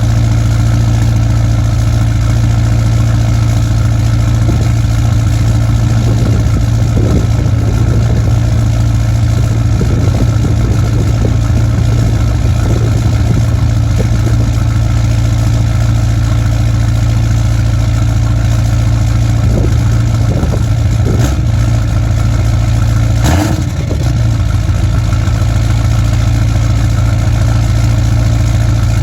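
Ford 6.0 Powerstroke turbo-diesel V8 in a 2006 F-250 idling steadily through a 4-inch straight pipe while warming up after a cold start; the owner says the truck has a slight misfire. A short sharp sound about 23 seconds in.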